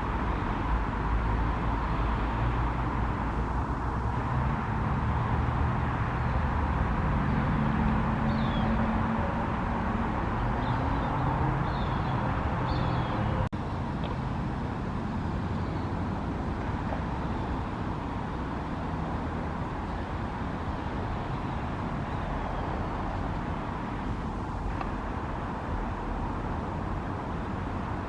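Steady outdoor rumble of traffic, with a vehicle engine hum in the first half and a few faint high chirps; the sound drops out for an instant about 13 seconds in.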